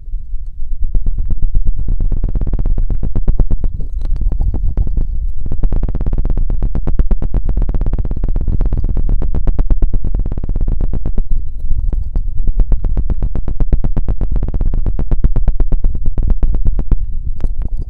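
Very fast scratching on a sensitive ASMR microphone with a feather rod: a dense, even run of many short strokes a second, carrying a heavy low rumble from contact with the mic.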